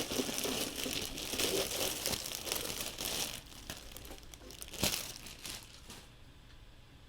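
Plastic model-kit packaging crinkling as hands rummage through it for a part, dense for the first few seconds, then thinning to scattered crackles with one sharp click about five seconds in.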